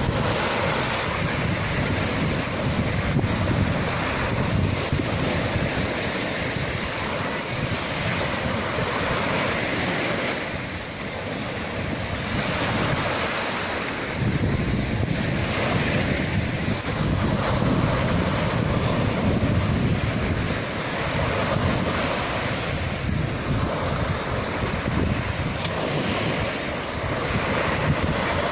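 Sea waves breaking and washing in surf, in a continuous rush that swells and eases every few seconds, with wind buffeting the microphone.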